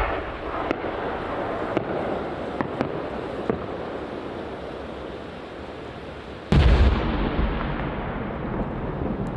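Aerial fireworks shells bursting: a sharp report at the start and a few scattered pops, then a much louder deep boom about six and a half seconds in that rumbles away slowly.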